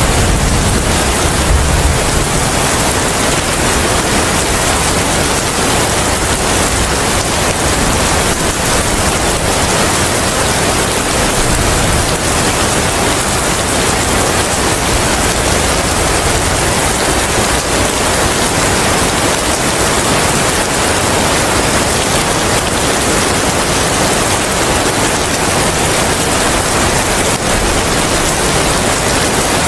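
Steady, dense rain, with a low rumble dying away in the first two seconds.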